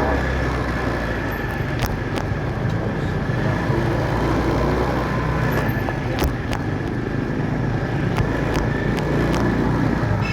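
Motorcycle engine running steadily on the road amid traffic noise, with a steady high tone over it and a few sharp clicks.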